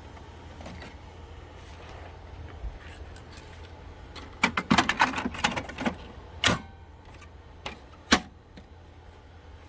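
Clicking and clattering of the HP OfficeJet Pro 8710 printer's plastic parts: a quick run of clicks about four and a half seconds in, lasting about a second and a half, then three separate sharp clicks, the last one the loudest.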